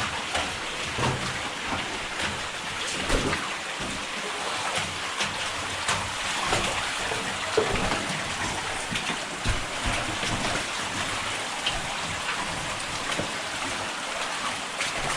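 Water in an underground mine passage: a steady hiss of running and dripping water, with scattered small drips and splashes throughout.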